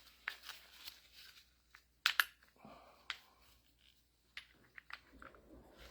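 Faint, scattered clicks and taps of metal parts being handled as a gear shaft is slid into a hydraulic gear pump housing to mesh with its partner gear. The sharpest is a double click about two seconds in.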